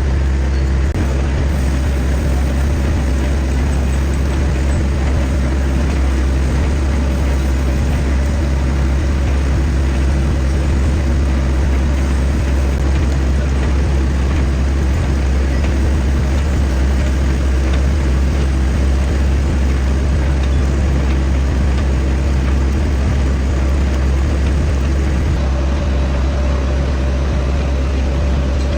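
Lathe machine running steadily with a loud, low, even drone, as it machines a metal pulley.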